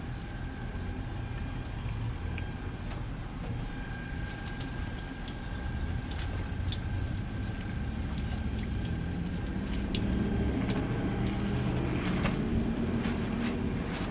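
Batter-coated Oreos deep-frying in canola oil: a steady sizzle with scattered sharp pops and crackles, over a steady low rumble.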